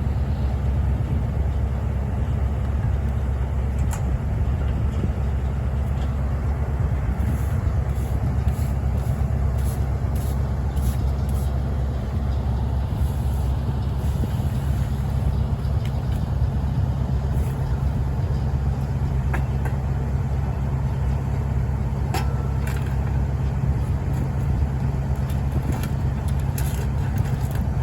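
Heavy work-vehicle engine running steadily at an even, low idle-like speed, with a few faint clicks over it.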